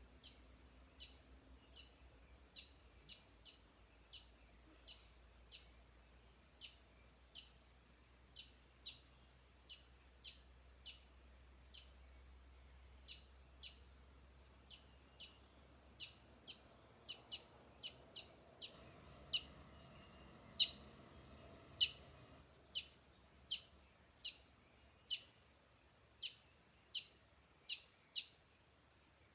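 A bird giving a long series of short, high chirps, one to two a second, loudest around the middle. A faint hiss joins for a few seconds midway.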